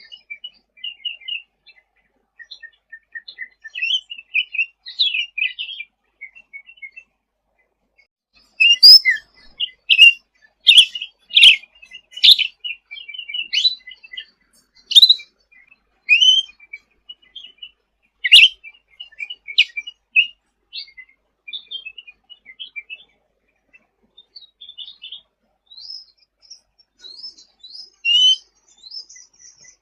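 A cucak ranting songbird singing lively (gacor): quiet twittering, then a run of loud, sharp chirps and short phrases from about nine seconds in to nearly halfway, then softer twittering again.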